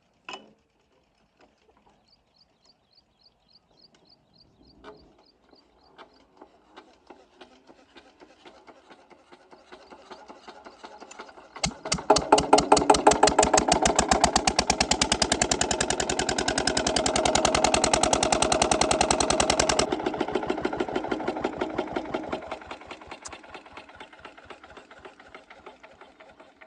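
8HP diesel pumpset engine being started: slow ticks quicken as it is cranked, then it fires about 12 s in and runs with a loud, even chugging. After about 20 s it fades and winds down, nearly stopping by the end.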